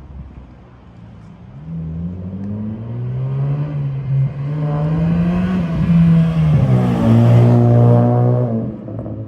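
Honda Civic 1.8-litre four-cylinder running through an aftermarket Fireball exhaust muffler, getting louder as the car accelerates with the exhaust note climbing in pitch. About six and a half seconds in the pitch drops and a deep steady drone holds, then it fades away near the end.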